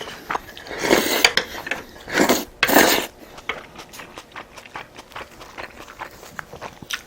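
Close-up eating sounds: chewing and mouth noises, with repeated short clicks of utensils against dishes and a few louder bursts between the first and third seconds.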